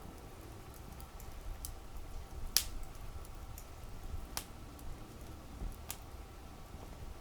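Campfire burning: wood crackling and popping in irregular sharp snaps, the loudest about two and a half seconds in and again near four and a half seconds, over a low steady rumble of the flames.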